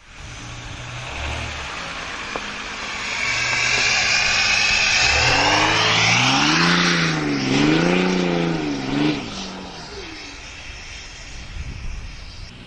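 Engine of a Jeep Grand Cherokee EcoDiesel with a FloPro exhaust, heard running. It gets louder from about four seconds in, its pitch rises and falls twice as it revs, and it eases off near the end.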